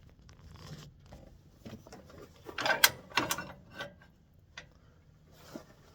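Irregular clicks and clattering knocks of woodturning tools being handled and set down, a cluster of louder ones about halfway through. The lathe is not heard running.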